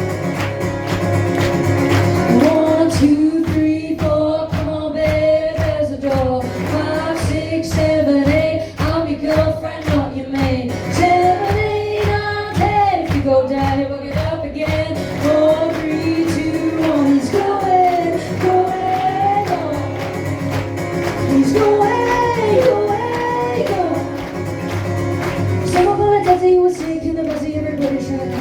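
A live band playing an upbeat song, with a female voice singing over a steady drum beat.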